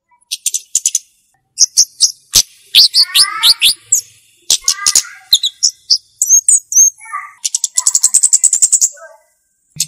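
Flowerpecker (kemade, cabe-cabean) calling: bursts of very high, fast ticking trills and short, sharp down-slurred notes, separated by brief pauses, with a few lower slurred notes mixed in.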